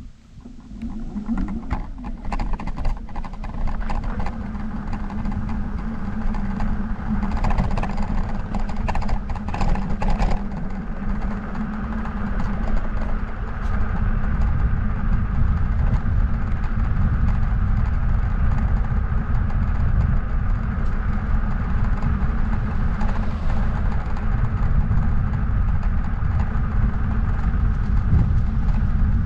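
Riding noise from a moving bike: a low rumble with a steady hum that builds up over the first couple of seconds, with some clattering between about seven and ten seconds in.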